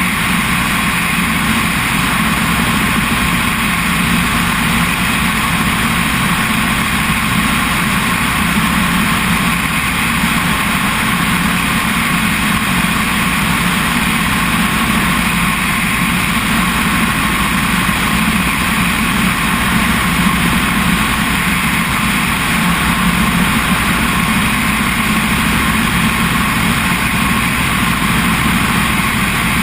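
Helicopter in flight: steady, unchanging engine and rotor noise, with no change in pitch or level.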